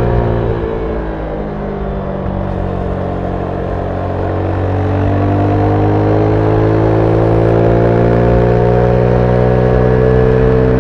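Zontes 310V motorcycle's single-cylinder engine with its stock exhaust, heard from the rider's seat: it drops in pitch and quietens as the rider eases off, then from about four seconds in climbs steadily in pitch and grows louder as the bike accelerates.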